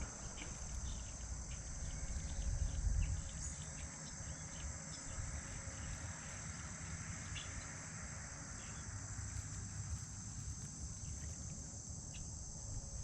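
Steady high-pitched insect chorus of crickets chirring without a break, over a low rumble that swells about two to three seconds in.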